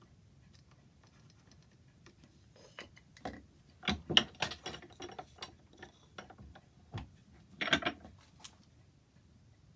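A run of irregular sharp clicks and knocks, the loudest about four seconds in and a short cluster near eight seconds.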